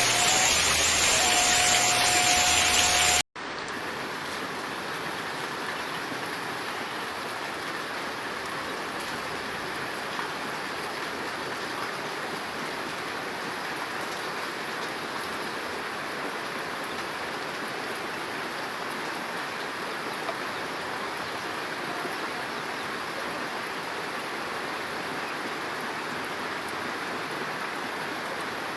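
Steady rain, an even hiss with no change. In the first three seconds a louder rushing noise with a single held note plays, then cuts off suddenly and the rain carries on alone.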